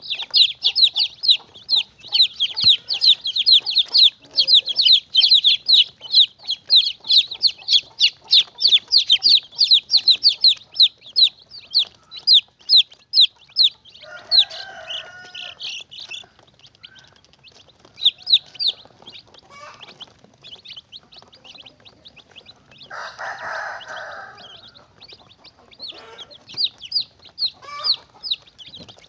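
Chicks peeping rapidly and continuously, several high, falling peeps a second, thinning out after about twelve seconds. Twice, about halfway and again near the end, an adult chicken gives a longer, lower call lasting about two seconds.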